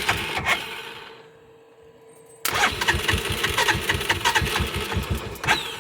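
UTV engine being cranked by its starter motor, jumped directly from a battery: it turns over with an even pulsing beat, dies away about a second in, then cranks again from about two and a half seconds without catching.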